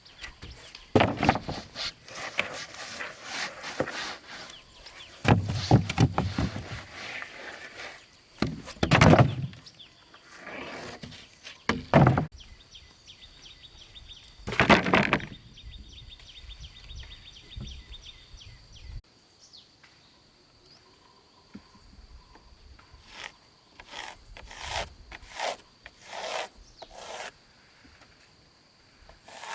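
Wood being handled and worked: irregular knocks, bumps and scraping, louder in the first half and lighter near the end, over a steady high-pitched whine.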